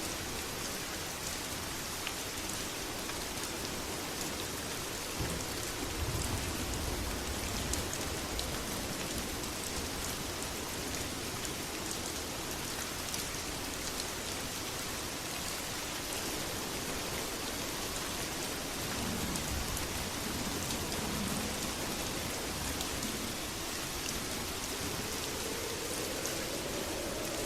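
Steady rain falling hard, with a low rumble of distant thunder about six seconds in.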